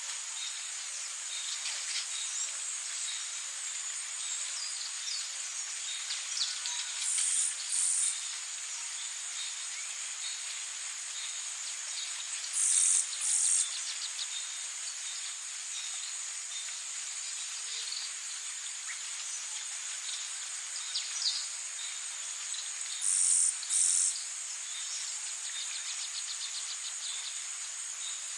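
Tropical insect chorus: a steady, high-pitched drone of crickets or cicadas, with small bird chirps scattered through it. Three times, a loud high call sounds twice in quick succession.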